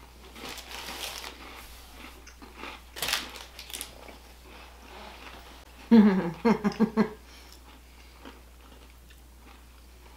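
Crunching bites and chewing of chocolate-covered, cream-filled biscuits. About six seconds in comes a short closed-mouth "mmm" hum of approval in a few quick pulses, the loudest sound.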